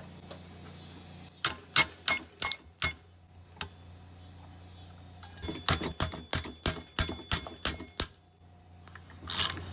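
Socket ratchet clicking on the flywheel nut of a push-mower engine, in two runs of sharp clicks, a few a second, with louder rasping strokes near the end.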